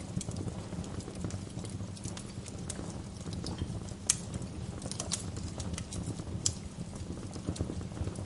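Wood fire in a fireplace crackling: irregular sharp pops and snaps over a steady low rumble, with the loudest pops about four seconds in and again about six and a half seconds in.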